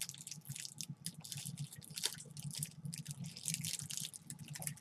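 Close-up wet chewing of a soft gummy candy with a gooey filling: irregular smacking clicks from the mouth.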